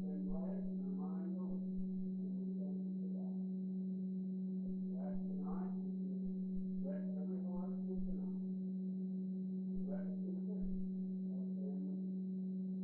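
A steady low electrical hum with a faint murmur of people talking under it.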